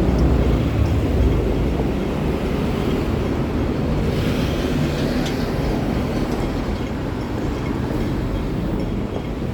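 Hong Kong MTR train running: a steady, loud low rumble, with a brief hiss about four to five seconds in.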